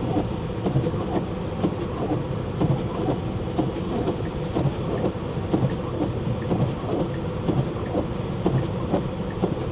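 Road and tyre noise from a Tesla Model 3 on winter tyres at highway speed, about 65 mph on a snowy road: a steady rumble heard inside the cabin, with faint, irregular ticks over it.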